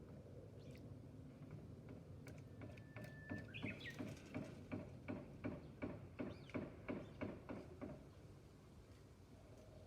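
A small bird bathing in shallow water, splashing in a quick regular series, about two to three flicks a second, for around five seconds, with a short whistled bird note as the splashing starts.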